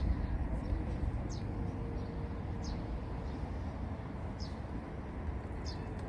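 A bird repeating a short, high, downward-sliding chirp about every second and a half, over a steady low rumble.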